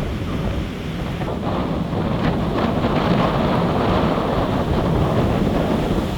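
Gusty tropical-storm wind buffeting the microphone over storm surf breaking on the beach. The surf swells louder for a few seconds in the middle.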